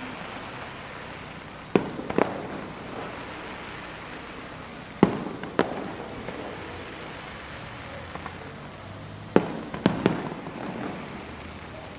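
Fireworks bursting overhead: sharp bangs every few seconds, several in quick pairs, over a steady hiss.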